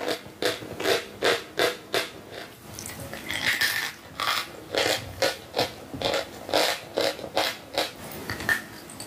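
Close-miked chewing of a mouthful of sawn chalk: a steady run of dry crunches, about two or three a second, with a longer grinding stretch a few seconds in.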